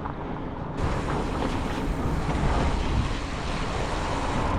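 Wind rushing over the microphone and road noise from a moving bicycle, a steady hiss with no tones, that gets louder and brighter about a second in.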